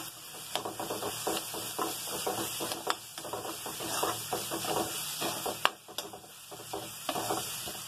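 Chopped onions and ginger-garlic paste sizzling in hot oil in a steel kadai while being stirred, the metal utensil scraping and clinking against the pan in quick irregular strokes, with a few sharper clacks.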